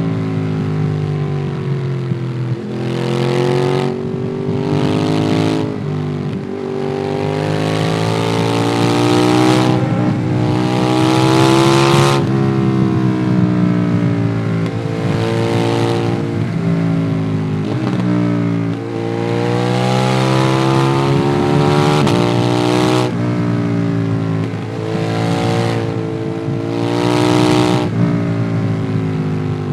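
Ducati Monster 821's L-twin engine through a QD Twin Gunshot aftermarket exhaust, heard from the rider's backpack while riding. It revs up and drops back again and again, with sudden breaks in pitch at gear changes and bursts of wind rush at the higher speeds.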